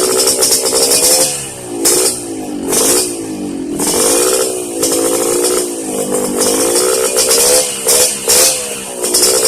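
Yamaha RX-King two-stroke single-cylinder motorcycle engine revving through an aftermarket YRC Racing exhaust. The engine speed dips and climbs again several times as the throttle is worked.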